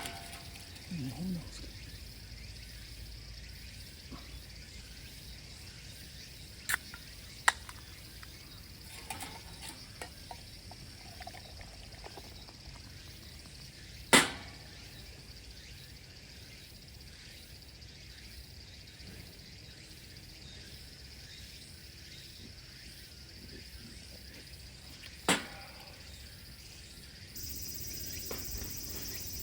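Steady high chirping of insects in the background, with a few sharp clicks or knocks; the loudest comes about halfway through, another near the end.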